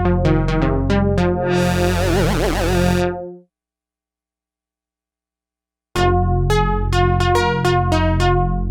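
Sequential Prophet-10 rev 4 analog polyphonic synthesizer playing a fast pattern of short notes over a bass line, dry with no effects. It swells into a noisy wash with a wobbling pitch and fades out. After a few seconds of silence, a new preset starts another quick run of short repeated notes over bass.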